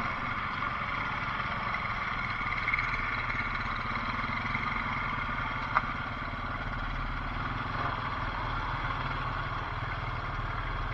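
Off-road mud bike's engine running steadily at an even speed, with one sharp click about six seconds in.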